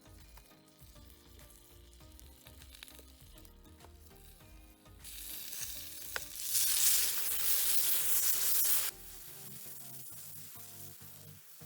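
Food sizzling as it fries, loudest from about five seconds in and cutting off abruptly near nine seconds, over soft background music.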